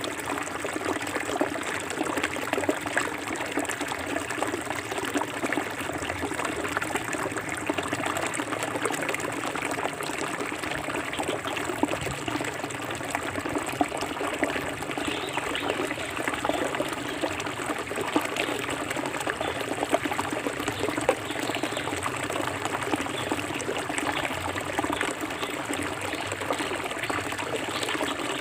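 Clear forest river flowing over rocks: a steady babble of water with lots of small splashes and trickles.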